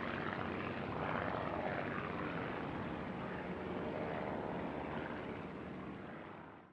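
Aircraft engine noise, steady and then fading over the last second before cutting off abruptly.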